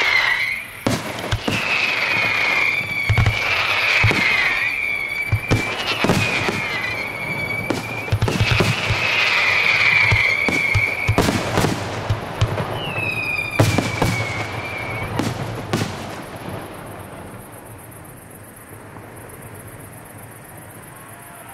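Fireworks going off: a rapid string of sharp bangs and crackles mixed with several high whistles, each lasting a second or two and falling slightly in pitch. The bangs die away about three quarters of the way through, leaving a fainter steady noise.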